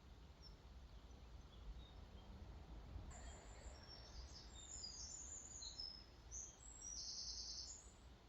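Faint songbird singing a run of short, high, quick notes from about three seconds in, ending near the end in a fast trill, over a steady low rumble of background noise.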